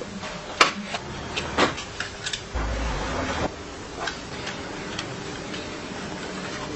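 Irregular light clicks and taps, the sharpest about half a second and a second and a half in, with a brief low rumble about two and a half seconds in.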